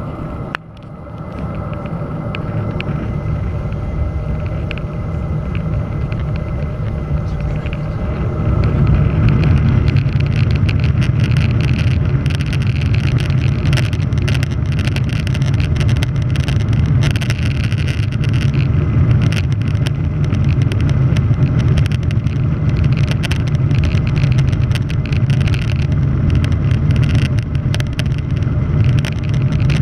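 Boeing 737-800's CFM56 jet engines spooling up, then running at a steady, louder takeoff-power rumble from about eight seconds in. Frequent short clicks and knocks sound over the rumble through the second half.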